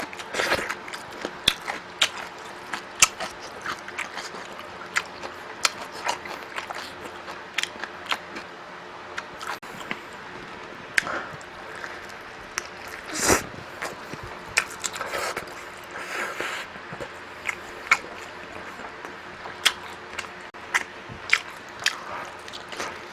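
Close-up eating sounds: chewing and mouth smacks with many irregular sharp clicks, and one longer, louder smack or slurp about 13 seconds in.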